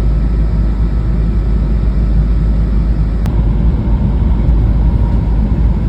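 E2 series Shinkansen running at speed: a steady, heavy low rumble and roar.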